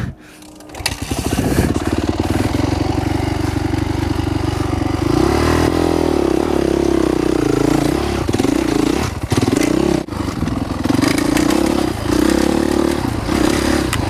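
Honda CRF450R four-stroke single-cylinder dirt bike engine under load. It comes up to speed in the first second or so, revs up and back down around six seconds in, then the throttle is opened and closed in short bursts through the second half.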